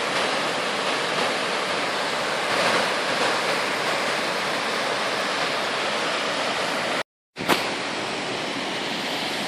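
Waterfall rushing: a steady, dense roar of falling water. It cuts out completely for a fraction of a second about seven seconds in, then resumes with a click.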